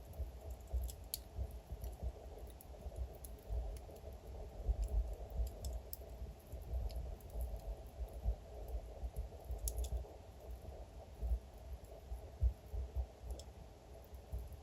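Wood fire crackling: scattered sharp pops and snaps from burning logs over a low steady rumble.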